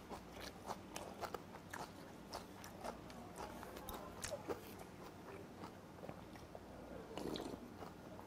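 A man chewing food close to a clip-on microphone: faint, wet smacking mouth sounds with small crunches. About seven seconds in comes a softer, denser sound as he sips from a bowl.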